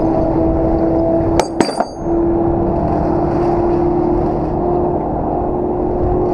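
A truck engine running steadily with a held humming tone. About a second and a half in it is broken by two or three sharp metallic clinks that ring briefly.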